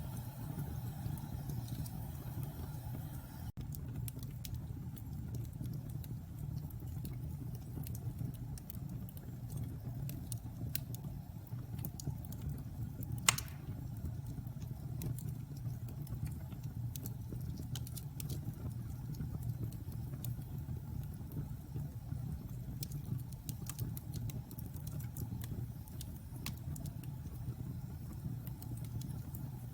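Logs burning in a fireplace: a steady low rumble of the fire with scattered crackles throughout and one loud pop about 13 seconds in.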